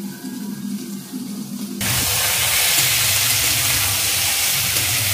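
Vegetables sizzling as they fry in hot oil in an aluminium karai, stirred with a metal spatula. The loud, steady sizzle starts abruptly about two seconds in; before it there is only a quieter low hum.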